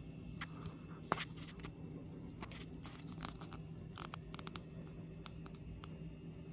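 Scattered light clicks and scrapes of hard plastic, IBM Model M keyboard parts being handled, over a steady low hum.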